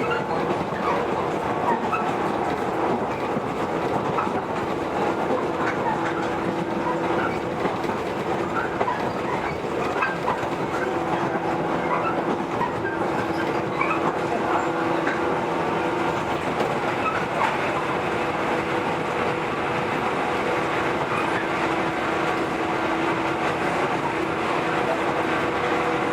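A JR 115-series electric train running along the line: a continuous rumble of wheels on rail, with scattered clicks and clacks from the track and a steady humming tone.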